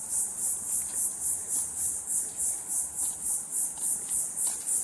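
Insects singing in a high, evenly pulsing chorus, about four pulses a second.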